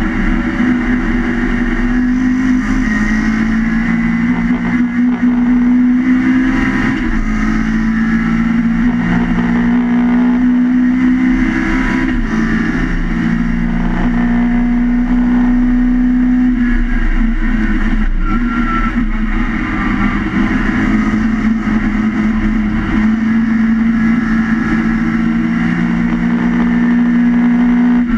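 Swiftune-built BMC A-series four-cylinder engine of a historic Mini Cooper race car, heard from inside the stripped cabin, running hard at high revs on track. The engine note holds high and dips briefly about every five seconds, with road and wind noise underneath.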